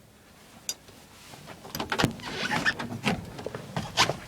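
Scattered knocks and clunks with some rustling, as of someone moving about and handling parts of a vehicle; no engine is running.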